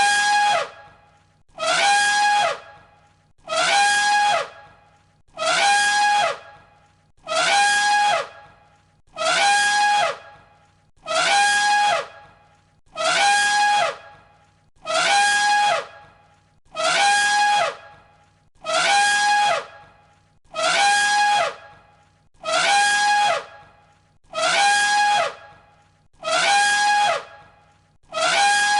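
Elephant trumpeting: the same short, loud call repeats about every two seconds, each one a steady high blare with a falling slide beneath it.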